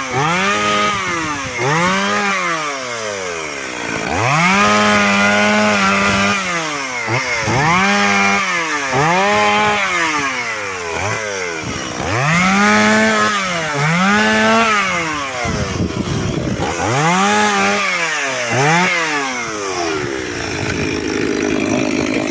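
Chainsaw cutting firewood logs, its engine revved up and falling back again and again about once a second, sometimes held at full speed for a second or two; near the end it drops to a steady idle.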